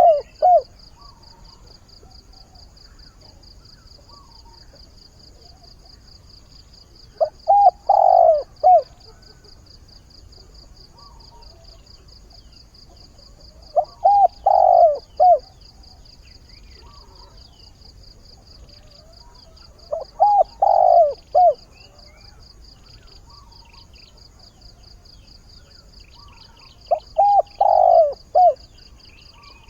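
Spotted dove cooing its song: a phrase of a few short notes run into a longer note, repeated about every six to seven seconds. It is a male's advertising call to find a mate, given by a decoy dove.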